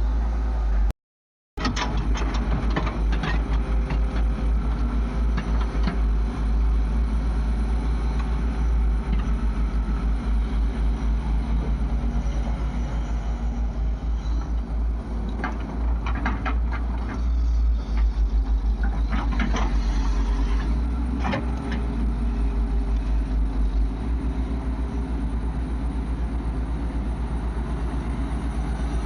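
Heavy diesel engine running with a steady low throb, with a run of knocks and clatter about halfway through.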